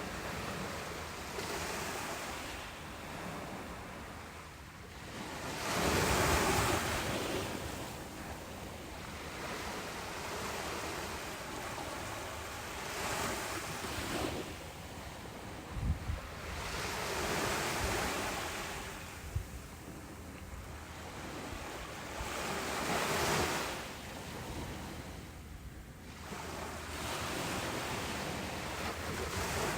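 Ocean surf breaking on a beach, a steady wash swelling into a louder breaking wave every few seconds. There are also a couple of brief low thumps.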